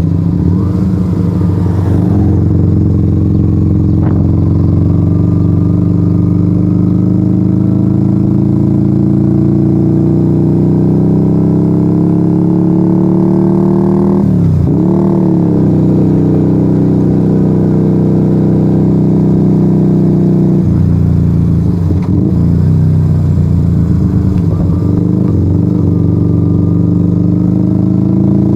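Yamaha XV125 Virago's small V-twin engine through a straight-pipe exhaust with no baffles, heard from on board while riding. The revs climb slowly and steadily for about twelve seconds, dip sharply and pick up again about halfway through, hold steady for a while, then rise and fall repeatedly near the end as the throttle eases on and off.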